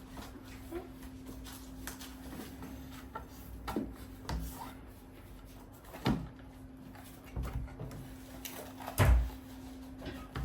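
Handling a cardboard product box while trying to open it: scattered knocks and scrapes, the loudest thump about nine seconds in, over a faint steady hum.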